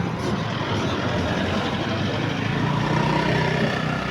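Motor vehicle engine running, with steady road and traffic noise.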